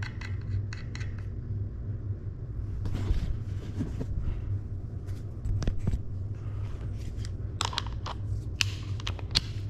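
Scattered metal clicks and clinks of bicycle parts and tools being handled while a freewheel removal tool is held in place by the axle bolt, over a steady low hum. The clicks come thicker near the end.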